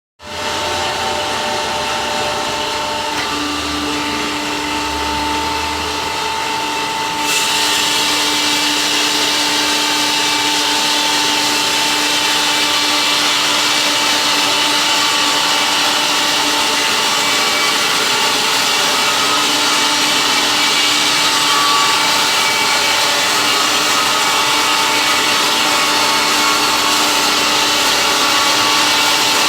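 Automatic log sawmill running with a steady hum. About seven seconds in the saw blade starts cutting into the log, adding a loud hiss that continues.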